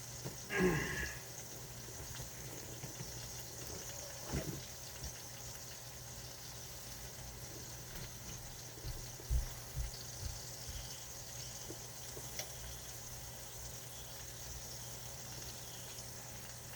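Pot of water boiling on the stove, a steady bubbling hiss, with a few faint knocks and a brief sliding sound near the start.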